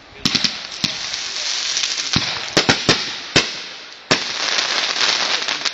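Fireworks going off: a run of sharp bangs, several in quick succession about a third of a second in and then roughly every half second, over continuous crackling.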